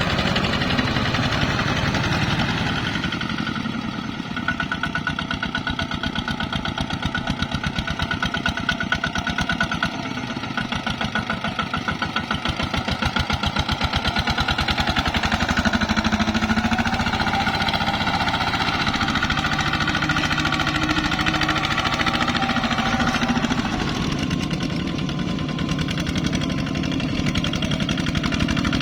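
ZT 155 tractor engine running steadily under load while hauling rice through mud, with a rapid, even firing beat. Its pitch shifts a few times, around the middle and again near the end.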